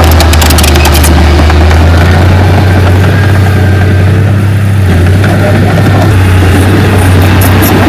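Heavy diesel engine of earthmoving equipment running steadily and loudly, with a deep low hum. Bursts of sharp, high clicking come about a second in and again near the end.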